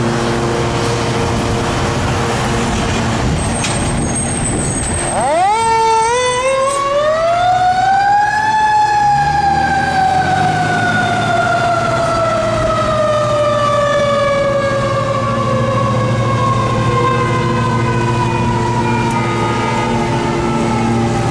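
A fire engine's engine idles, then about five seconds in its siren winds up, climbing steeply in pitch for about three seconds before slowly winding down. The long, slow fall in pitch is typical of a mechanical (Q-type) siren coasting down.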